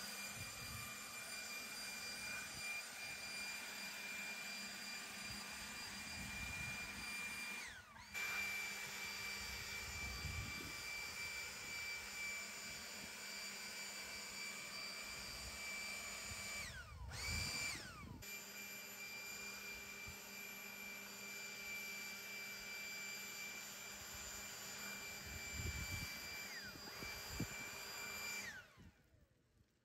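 Electric blower motor of a lawn-clearing tool running with a steady high whine. It winds down and back up twice, about 8 and 17 seconds in, and winds down to a stop near the end.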